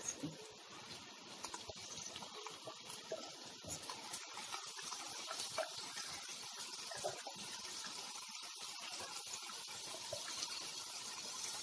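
Faint, steady sizzle of onions frying in oil in a pan, with a few soft clicks of a wooden spoon as a ground onion, ginger and garlic paste is added.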